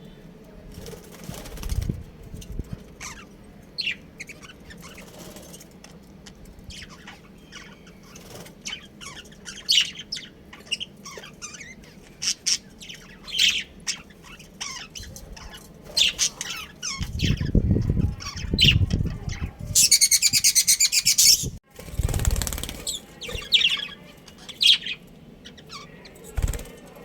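Budgerigars chirping in many short high calls, with low rustling bursts and a loud, harsh buzzing burst about two-thirds of the way through.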